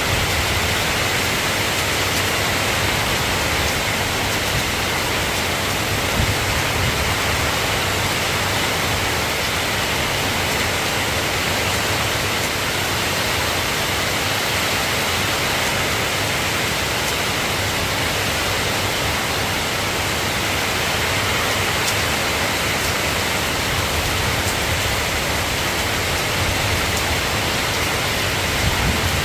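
Soft rain falling steadily, an even hiss with no breaks.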